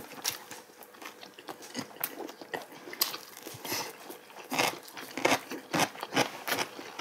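Close-miked eating sounds from people chewing braised oxtail: wet chewing and lip smacks. They come sparsely at first, then faster and louder about four and a half seconds in, at roughly three a second.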